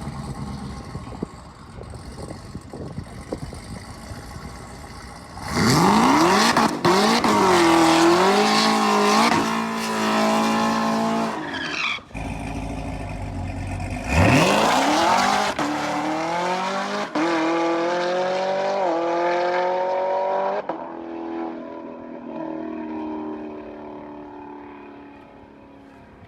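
Race car engines at wide-open throttle on a drag pass: two hard pulls, each climbing in pitch through several upshifts, with a brief loud low rumble between them, then fading away as the car moves off.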